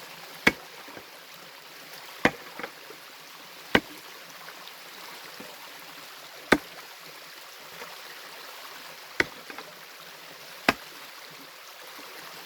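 Pickaxe striking hard stream bedrock, six sharp blows one to three seconds apart, the rock proving really tough to break. A stream runs steadily underneath.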